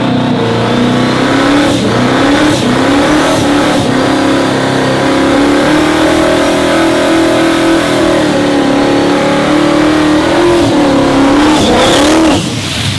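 A car engine accelerating hard at full throttle, pitch climbing through several gear changes, then holding high. The engine lifts off abruptly near the end.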